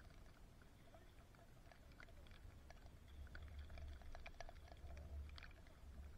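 Near silence: a faint low wind rumble on the microphone, with scattered light ticks of raindrops hitting the camera housing, growing thicker from about three seconds in.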